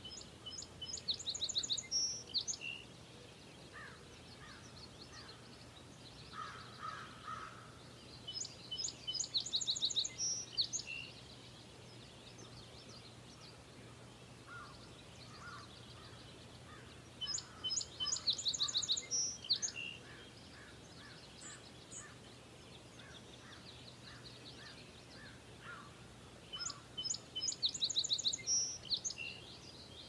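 A songbird singing the same rapid, high-pitched song phrase four times, about every eight to nine seconds, with fainter, lower notes in between.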